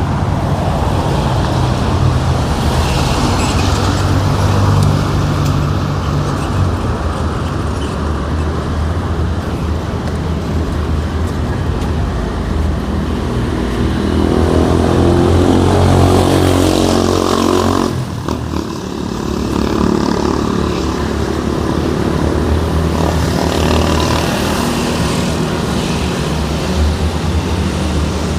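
Street traffic: motor vehicles running and passing, with a steady low engine drone. About halfway through, one engine grows louder and rises a little in pitch, then drops away suddenly.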